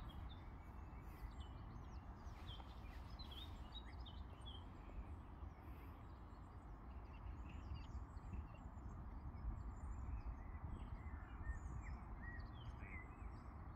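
Birds chirping and singing, many short high calls scattered throughout, over a steady low background rumble.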